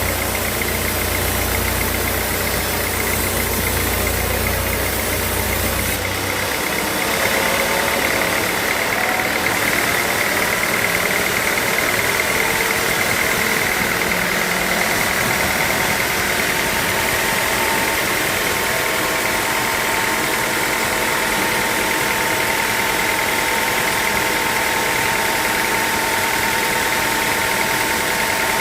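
Sawmill machinery running steadily with a high, even whine. A low rumble underneath stops about six seconds in.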